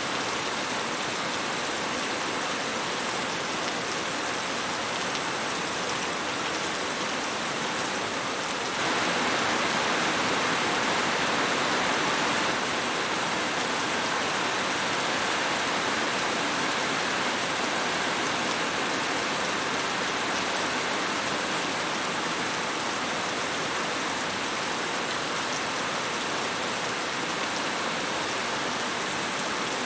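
Steady rain falling, an even hiss of drops that grows a little louder about nine seconds in and eases back over the next few seconds.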